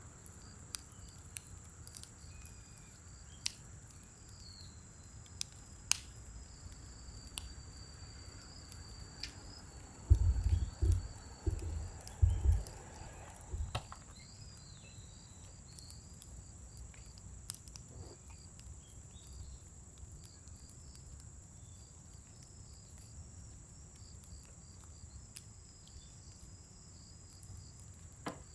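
Scrap-wood fire burning in a fire pit, crackling with scattered sharp pops, over a steady high insect trill. About ten seconds in, a short cluster of dull low thumps.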